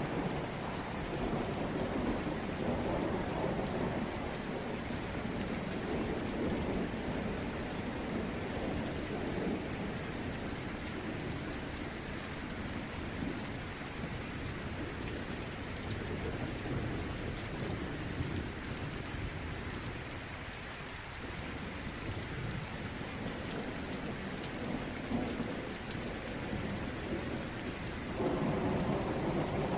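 Steady rain with low rolling thunder that rises and fades, swelling again near the end.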